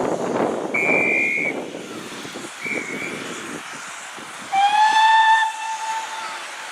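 A guard's whistle gives two high-pitched blasts, the first about a second long and the second short. A steam locomotive's whistle then answers with one louder blast of nearly two seconds, its pitch rising slightly as it opens. This is the exchange that gives a train the right away to depart.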